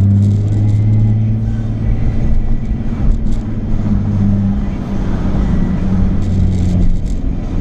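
Nissan 350Z's 3.5-litre V6 running through a Japspeed aftermarket exhaust, a steady low drone while driving that eases off about four seconds in.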